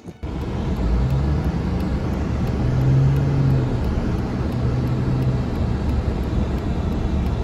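A motor vehicle running, a steady rumble of road and engine noise with a low hum that sets in about a second and a half in and fades out near five and a half seconds.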